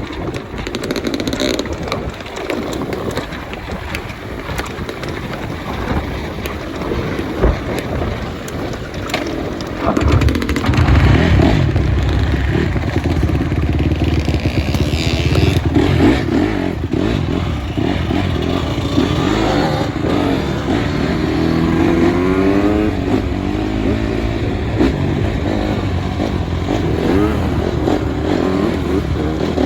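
Motorcycle engine running, getting louder about ten seconds in, its pitch rising and falling as the throttle changes.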